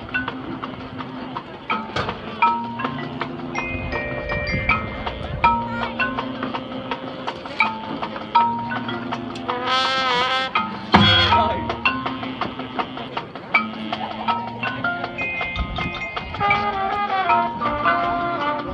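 Marching band music with the marimbas and xylophones of the mallet percussion prominent among many short struck notes. About ten seconds in, a single held wavering note stands out briefly.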